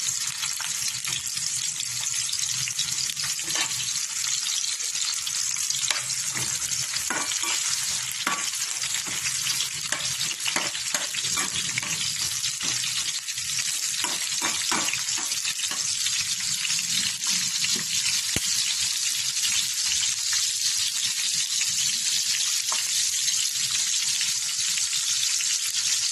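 Garlic sautéing in hot oil in a pan: a steady sizzle, with a spatula scraping and tapping against the pan many times through the middle stretch as the food is stirred.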